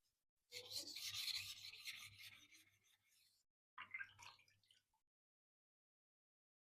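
Steel knife blade rubbed on a wet sharpening stone in a run of quick strokes for about three seconds, then a shorter second burst of strokes.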